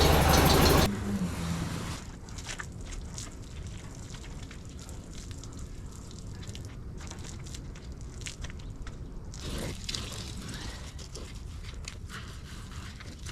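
VW bus air-cooled flat-four engine running, then cutting off about a second in and dying away within another second. Quiet background with faint scattered clicks follows.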